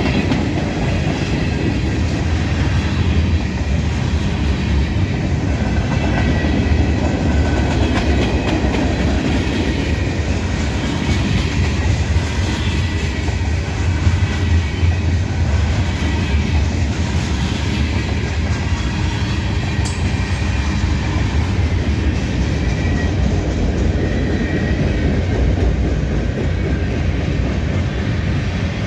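Freight train cars rolling past close by, a steady loud rumble of wheels on rail.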